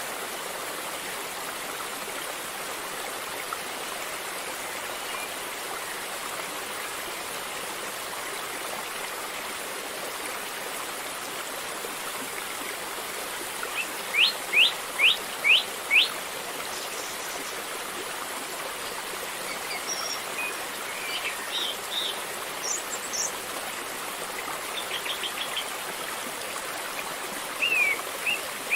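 River water flowing steadily. About halfway a bird gives five quick, sharp falling whistled notes, and scattered chirps follow toward the end.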